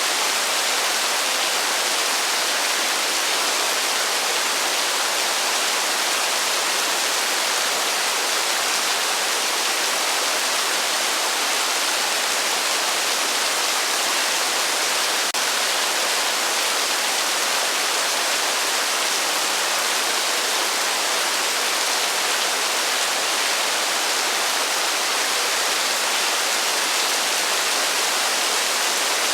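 Heavy rain pouring steadily with no thunder: an even, unbroken hiss.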